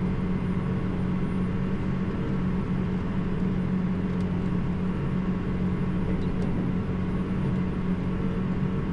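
Large tractor's diesel engine running steadily, an even drone with no change in pitch.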